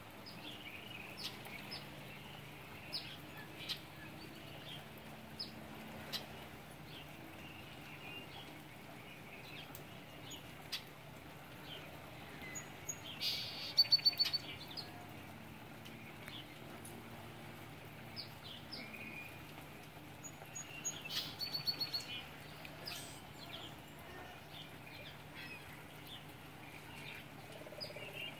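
Birds chirping: short high calls scattered throughout, with two louder quick runs of notes about halfway through and again about three-quarters of the way in, over a faint steady low hum.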